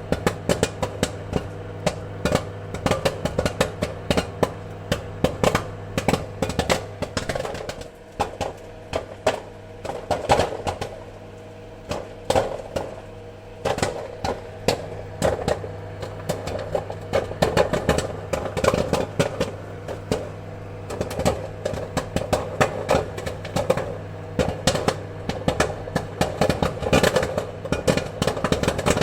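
Popcorn kernels popping in quick, irregular runs of sharp pops, with a few short lulls, over a steady low hum.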